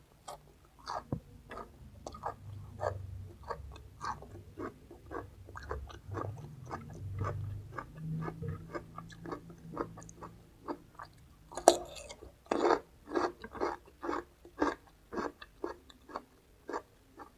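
Close-miked chewing of raw vegetables: a steady run of wet, crisp crunches about two a second, with one sharp, louder bite about two-thirds of the way through.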